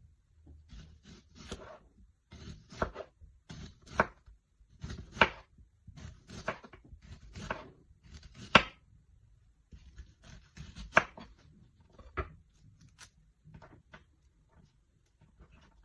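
Kitchen knife cutting food on a cutting board: about a dozen separate cuts roughly a second apart, each with a short scrape.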